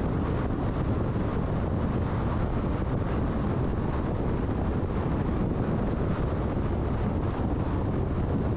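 Steady road noise of a car cruising at freeway speed: a constant low tyre rumble with wind noise, unchanging throughout.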